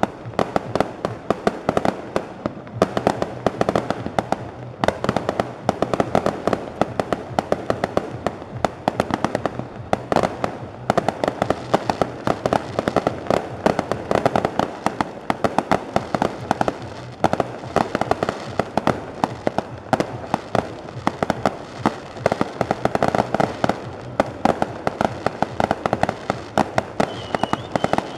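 Fireworks going off in a dense, continuous barrage of rapid bangs and crackles, many a second.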